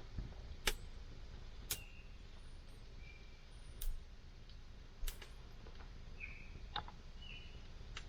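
Wood campfire burning, with sharp crackling pops about every second or so. A few short high-pitched whistles come in between the pops.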